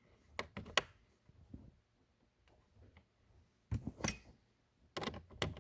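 Scattered small clicks and taps of a bolt and tool being picked up and handled, with the bolt fitted into place, in a few short clusters.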